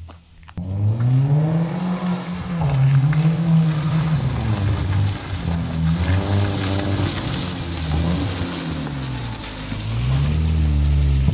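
BMW E36 sedan's engine revving up and down again and again as the car is driven hard on a muddy yard, each rise and fall about two seconds long. After a brief lull at the start it comes back, and about ten seconds in it grows louder as the car slides past close by.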